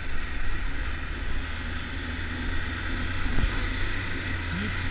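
Triumph Tiger 1200 three-cylinder motorcycle running steadily while riding an off-road trail, with wind noise on the microphone.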